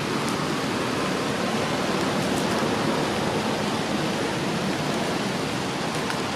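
A steady rushing hiss with a few faint ticks.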